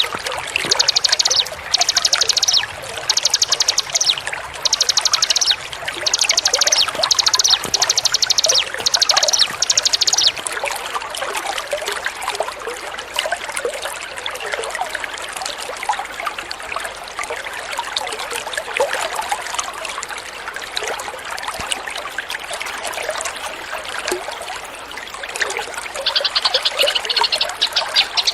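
A small songbird repeating short, rapid, high trills about once a second over running water that trickles throughout; after about ten seconds the trills stop and only the water is heard, until the trills return near the end.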